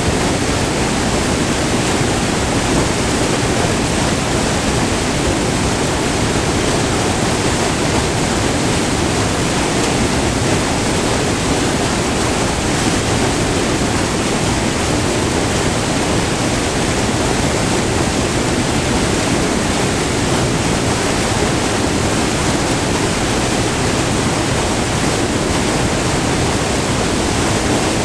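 Whitewater of a short, multi-tiered river waterfall rushing over rock, recorded up close: a loud, steady, unbroken rush.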